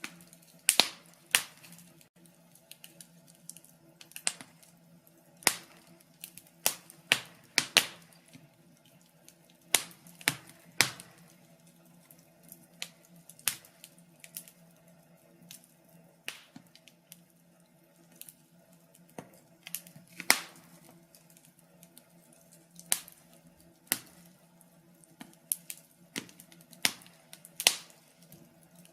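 Wood fire crackling in a fireplace: irregular sharp snaps and pops, a few to several per second in clusters, some much louder than others, over a faint steady low hum.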